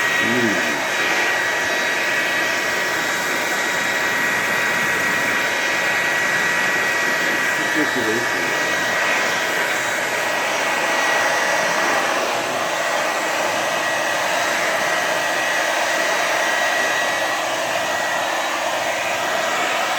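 Hand-held hair dryer running steadily, blowing hot air, with a steady high whine over the rush of air.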